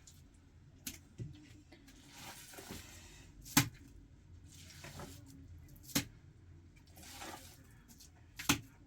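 A series of sharp knocks, the three loudest a couple of seconds apart, with short scraping sounds between them, as of hard objects being struck and rubbed during hand work.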